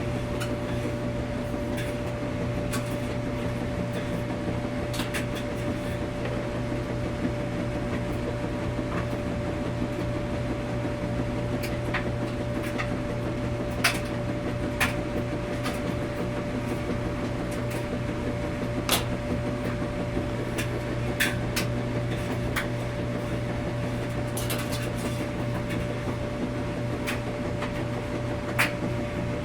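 Washing machine running in a laundromat: a steady hum with a constant tone over it, and light clicks and knocks every second or few.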